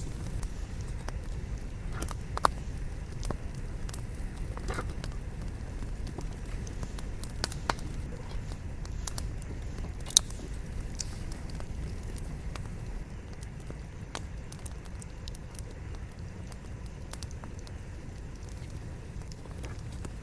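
Firewood burning in a campfire: a steady low rumble with scattered sharp crackles and pops, two of them louder, about two and a half seconds and ten seconds in.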